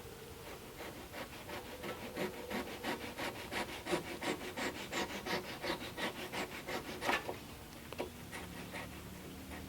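Hand saw cutting wood in quick, even strokes, about three to four a second, slowing to a few scattered strokes after about seven seconds.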